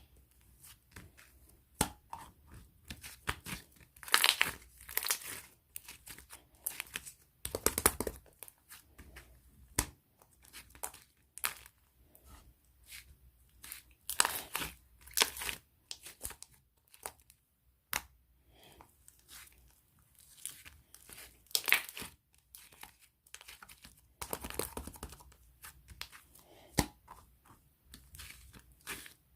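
Irregular crinkling and tearing noises of something being handled, in short bursts with pauses between them.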